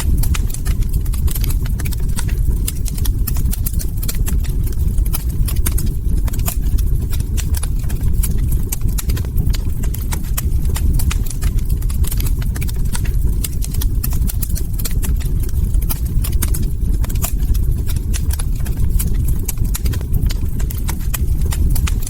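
Log fire crackling: a dense, irregular run of sharp pops and snaps over a steady low rumble of burning.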